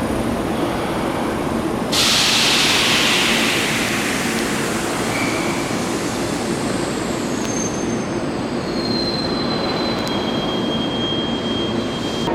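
Electric commuter train at a station platform, with a steady low running hum throughout. About two seconds in a sudden loud hiss starts and fades away over several seconds. Thin high-pitched squeals follow in the second half.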